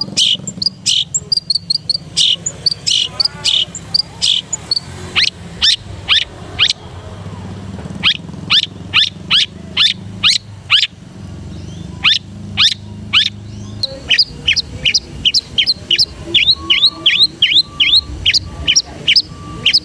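Long-tailed shrike singing: a long run of sharp, quick downward-sweeping chips, a few each second, varied in the first few seconds and coming faster and more evenly toward the end.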